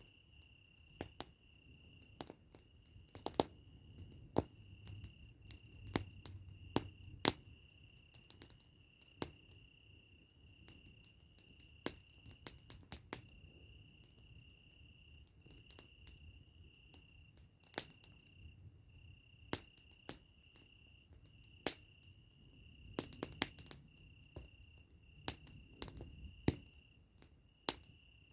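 Campfire crackling: irregular sharp pops and snaps of burning wood, several a second with some louder clusters, over a soft low flutter of flames. A steady high-pitched trill, broken by short gaps, runs behind it.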